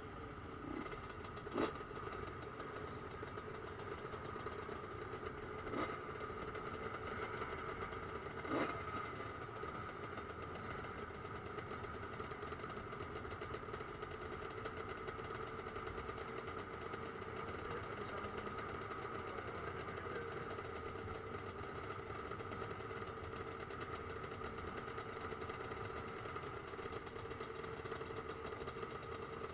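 Motocross bike engines running at a steady idle, with no revving, and a few sharp knocks in the first nine seconds.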